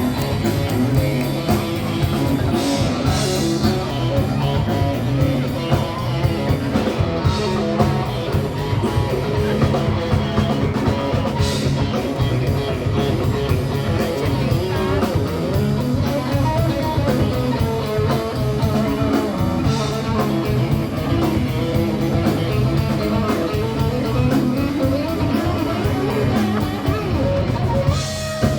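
Live rock band playing: guitar over a drum kit, steady and loud.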